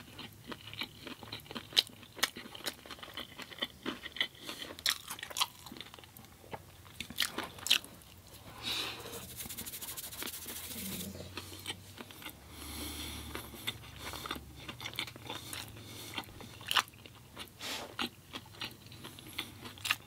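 A person chewing and biting food close to the microphone, mukbang style: many short, wet mouth clicks and bites, with a stretch of steadier noise about halfway through.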